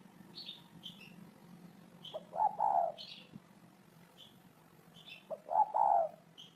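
Spotted dove cooing: two phrases about three seconds apart, each opening with a short note or two and running into longer coos. Short, high chirps from small birds come in between.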